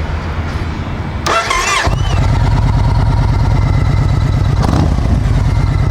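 Yamaha Stratoliner's big air-cooled V-twin starting: the starter turns it over and the engine catches about two seconds in, then settles into a steady, pulsing idle through its 2-into-1 performance exhaust. It starts readily, without hesitation.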